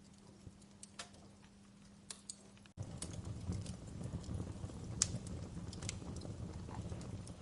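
Fireplace crackling, with scattered sharp pops and snaps. About three seconds in, the sound cuts out for an instant and comes back with a louder low rumble of flames under the crackles.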